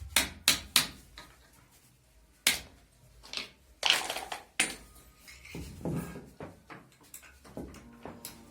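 Irregular sharp metallic clinks and knocks of metal parts and tools being handled during an electric motor repair.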